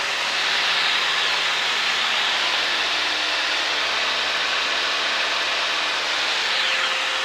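Cessna 152's four-cylinder Lycoming engine and propeller running steadily with rushing airflow, heard inside the cockpit as an even hiss.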